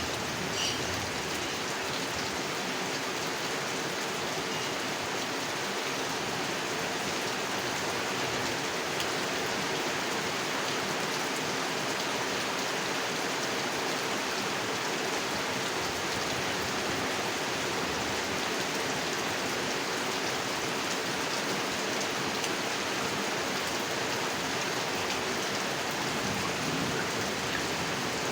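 Steady rain falling on a pond, an even hiss of drops on the water with a few separate drip ticks about a second in.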